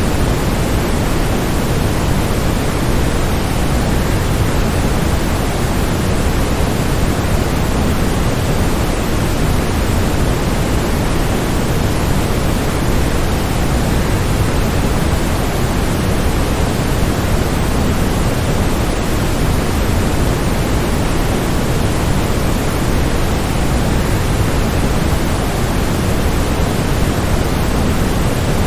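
Waterfall's steady rushing noise, an even, unchanging wash that is heaviest in the low range.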